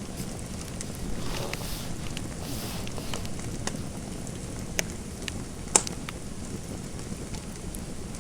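Fireplace fire crackling over a steady hiss, with scattered small pops and two sharper pops about a second apart past the middle.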